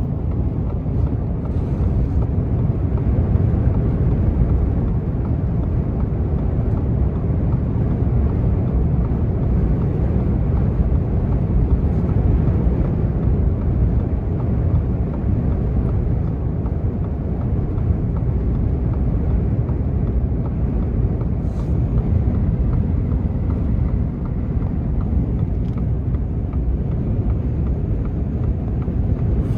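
Blizzard wind blowing hard against the microphone: a loud, steady low rumble.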